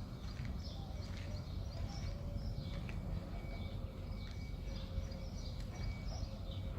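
Many small birds chirping and twittering, short quick calls overlapping throughout, over a steady low rumble.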